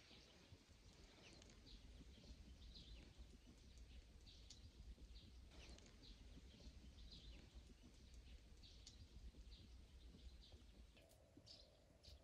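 Near silence: faint outdoor ambience with scattered soft, high chirps of distant birds.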